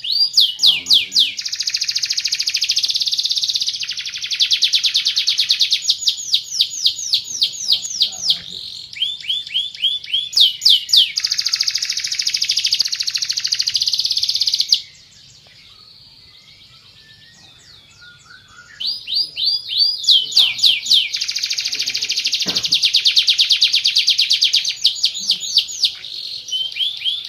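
Canary singing fast, high trills and rolling phrases in long runs. The song breaks off for about four seconds midway, then starts again.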